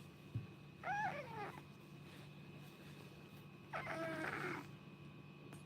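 Domestic cat meowing twice: a short call about a second in, then a longer one about four seconds in.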